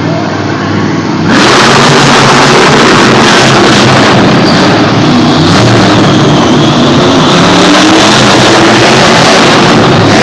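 Monster truck engine running very loud, jumping suddenly much louder about a second in and staying at that level.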